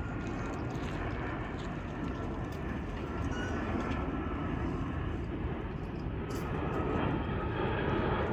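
Jet airliner coming in to land, its engines a steady rushing noise with a faint whine, growing a little louder near the end.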